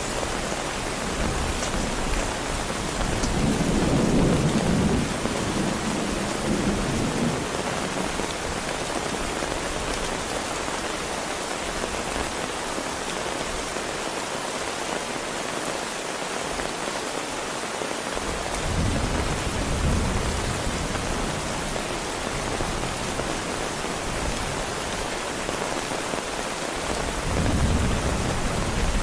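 Heavy rain falling steadily, with deep rolls of thunder rumbling three times: about four seconds in, around twenty seconds in and near the end.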